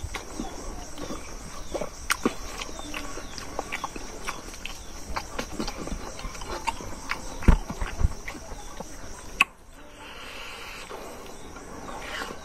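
Close-up chewing and lip-smacking of a man eating rice and pork by hand, a run of wet clicks every fraction of a second. Two heavy thumps come a little past halfway, and the mouth sounds go quieter for the last few seconds.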